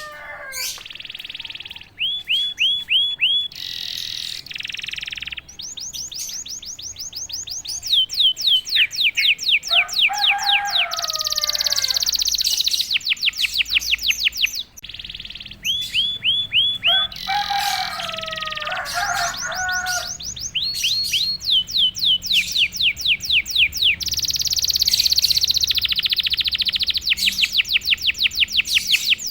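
Domestic canary in full song: long runs of fast trills, each made of rapid, evenly repeated down-slurred notes, with a couple of lower, rattling phrases in the middle. This is a lure song of the kind played to set silent canaries singing.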